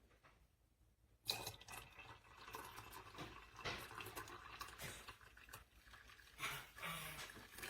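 Liquid running and splashing, starting about a second in and rising and falling in loudness.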